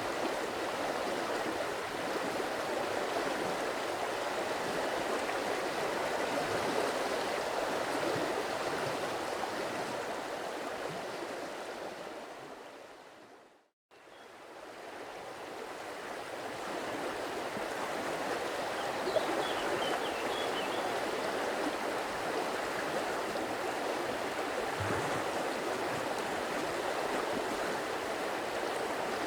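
Stream water flowing and gurgling steadily, fading out to silence a little before halfway and fading back in, as at the loop point of a recording. A few faint bird chirps about two-thirds of the way in.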